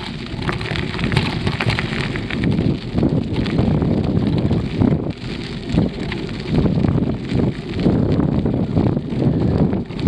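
Wind buffeting the microphone of a camera on a moving bicycle, with a steady stream of crackles and rattles from the bike and its tyres on the path.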